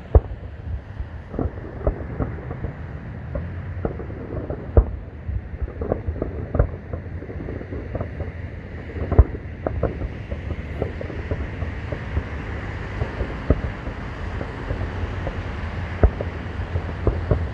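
Distant fireworks going off in an irregular string of booms and pops, a few loud bangs among many smaller ones, over a steady low rumble of wind and traffic.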